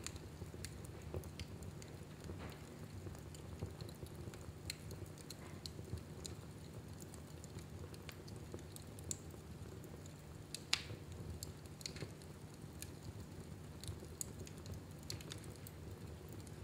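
Wood fire crackling in a fireplace: irregular sharp pops and snaps over a steady low rumble, with one louder pop about eleven seconds in.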